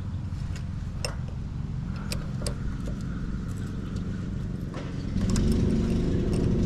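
Lawn mower engine running steadily, getting louder about five seconds in, with a few light metallic clinks of hand tools.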